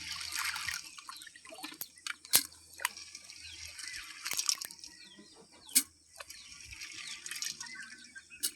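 Water splashing and dripping in uneven bursts, with a few sharp clicks or knocks in between.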